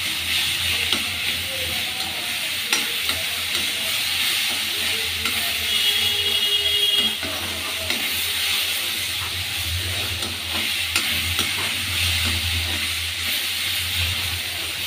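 Onions and tomatoes sizzling in hot oil in a kadhai, a steady frying hiss as the tomatoes cook down soft, while a metal slotted spatula stirs them with scattered scrapes and taps against the pan.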